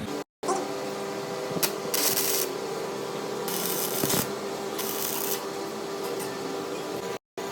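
Workshop machine running with a steady hum, with three short bursts of hiss about two, three and a half and five seconds in; the sound drops out abruptly for a moment just after the start and again near the end.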